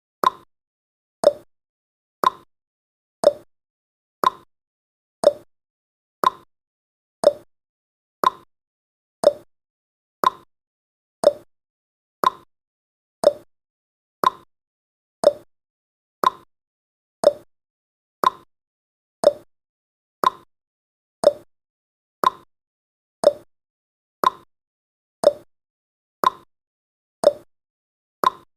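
Clock tick-tock sound effect: one sharp tick each second, alternating between a higher tick and a lower tock, steady throughout.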